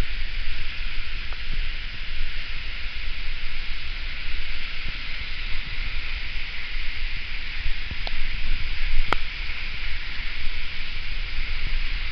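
Large waterfall in heavy flow after rain: a steady rushing hiss of falling water with a low rumble underneath, and a single sharp click about nine seconds in.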